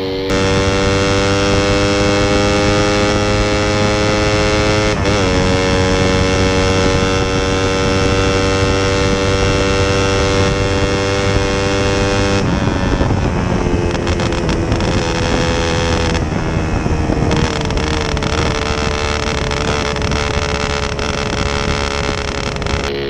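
Suzuki Satria FU 150 single-cylinder four-stroke revved through a gutted stock muffler: held at high revs with the pitch creeping slowly up, a brief dip about five seconds in, then lower, wavering revs from about halfway. Very loud and raspy.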